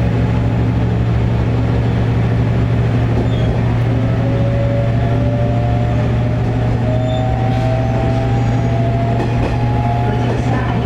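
Diesel railcar's engine running with a steady low hum, and a whine that rises slowly in pitch from about four seconds in as the railcar gets under way.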